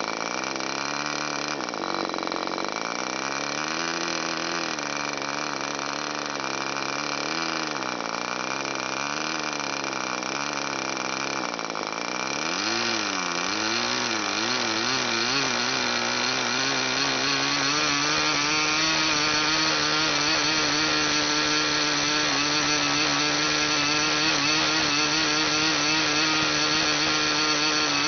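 K&B .40 two-stroke glow engine turning a 10x6 propeller during running-in. Its speed wavers up and down at first, then about halfway through climbs and settles to a steady, higher, slightly louder note.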